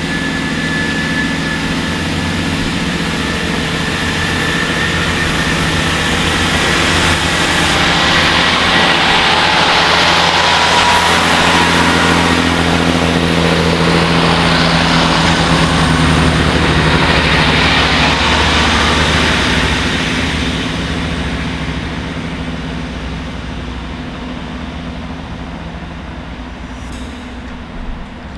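A train running past with a steady engine drone and a rushing rail noise. The sound builds to its loudest in the middle, then fades toward the end.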